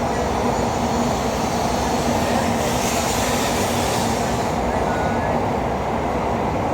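Shinkansen bullet train running along the platform track: a steady, loud rushing noise over a low hum, with a brighter hiss swelling about three seconds in and fading about a second and a half later.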